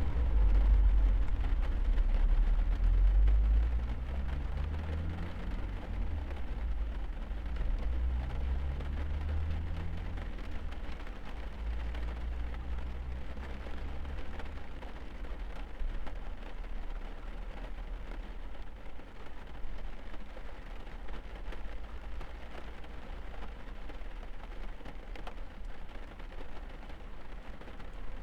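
Steady rain pattering on a car, heard from inside. Through the first half a low vehicle engine rumble rises in pitch twice, then eases off, leaving the rain.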